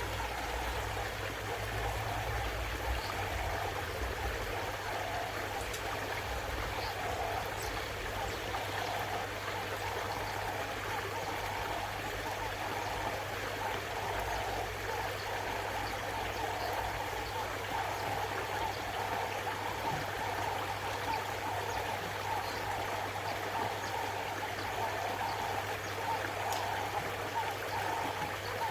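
Koi pond water running and splashing steadily, with a low steady hum underneath.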